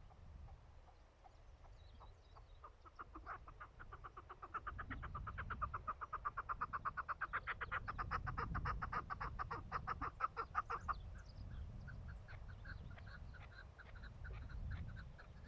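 Chukar partridge calling: a fast run of clucking notes, about eight a second, that builds up and stops abruptly, followed by a few scattered notes. A low rumble of wind or handling noise lies underneath.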